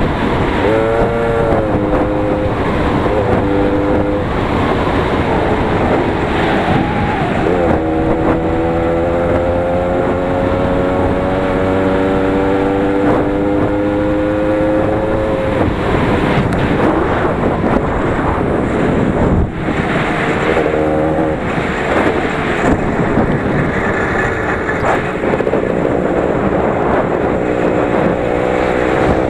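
Engine of a 20 hp Lider 3.221 running under load while driving cross-country, its pitch rising and falling with the throttle: a long steady climb as it accelerates for several seconds, then rougher, uneven running over bumpy ground before it picks up again near the end.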